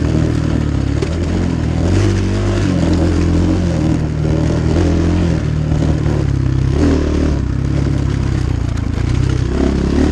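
Templar 250cc Chinese dirt bike engine running hard under load, its pitch rising and falling several times with the throttle and gear changes.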